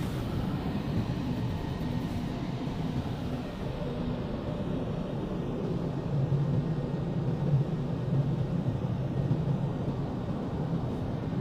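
Automatic car wash's air-dryer blowers running over the car, heard from inside the car as a steady rushing noise with a low hum, growing louder about six seconds in.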